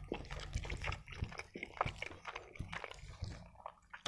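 Quiet, close-miked wet chewing and mouth sounds of someone eating macaroni with ketchup: irregular soft clicks and smacks.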